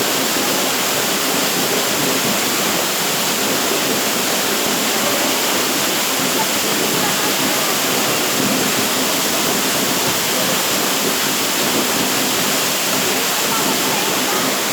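Waterfall: a steady rush of falling water at an even level throughout.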